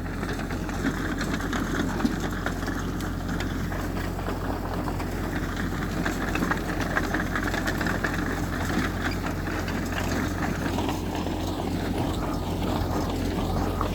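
Diesel engine of heavy earthmoving machinery running steadily, with a continuous low hum.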